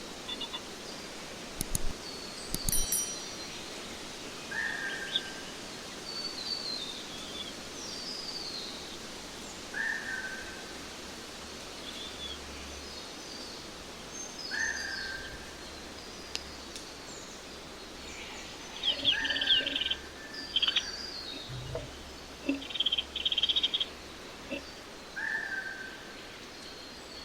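Small birds chirping and calling, with one short call repeated about every five seconds and quick higher chirps between. Scratchy rustling bursts and a low thump come about two-thirds of the way through, and a couple of sharp clicks near the start.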